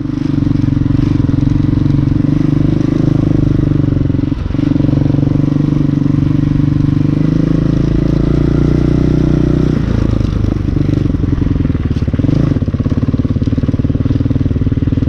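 Hawk 250 dirt bike's engine running steadily, with a brief dip about four seconds in and a shift to a lower, less even note about ten seconds in.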